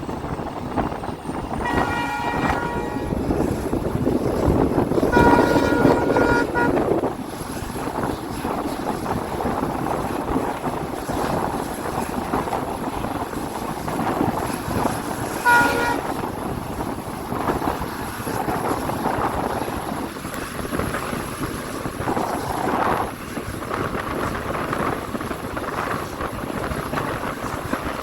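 Diesel locomotive horn sounding three times: a short blast about two seconds in, a longer, louder one around five to seven seconds, and a brief toot near the middle, over the steady noise of the train running.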